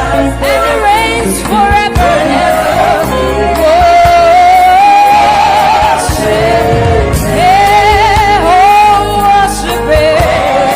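Gospel praise and worship music: a singing voice with wavering vibrato holds long notes over a band with bass and drums.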